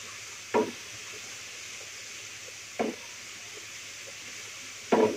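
Ground spice paste sizzling steadily in a pan as it is stir-fried, with three short knocks of the spatula against the pan about two seconds apart.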